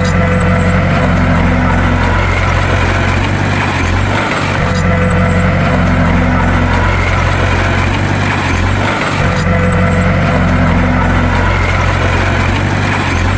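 Heavy bulldozer diesel engine running with a steady low drone. The same sound pattern repeats about every four and a half seconds, as in a loop.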